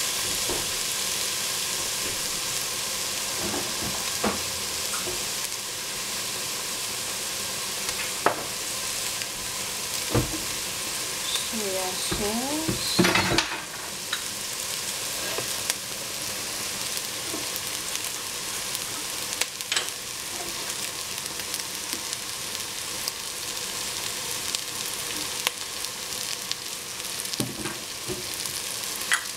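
Minced meat and ginger sizzling steadily as they fry in a stainless steel pot, with scattered short clicks and knocks; the loudest is a brief clatter about 13 seconds in.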